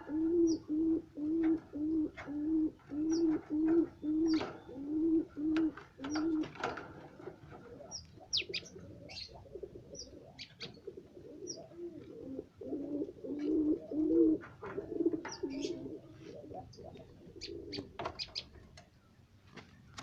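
A dove cooing in a quick series of short low notes, about two a second, for the first six seconds, then again more irregularly a few seconds later. Small birds give short high chirps throughout.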